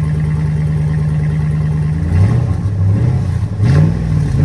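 Hemi V8 truck engine running with its tailpipes removed. It idles steadily, then about two seconds in it is revved in three or four quick blips. It is entirely too loud and sounds like a straight pipe.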